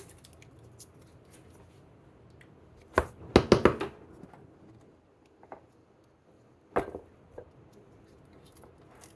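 A utensil knocking against a brownie baking pan while brownies are worked loose: a quick run of four or five sharp knocks about three seconds in, then one more sharp knock near seven seconds, with a few faint taps between.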